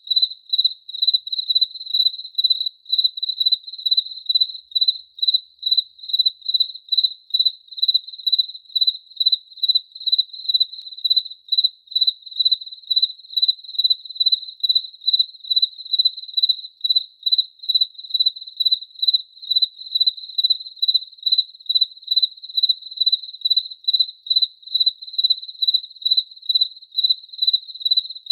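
A cricket chirping steadily, one high, pure-pitched chirp repeated evenly about three times a second.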